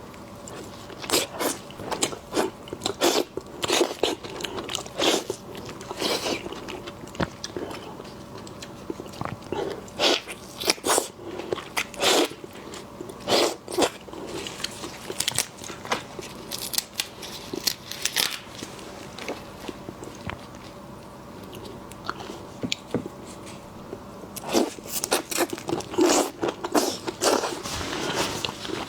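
A person eating shellfish: many crunchy bites and chewing, coming in clusters, with a quieter stretch past the middle.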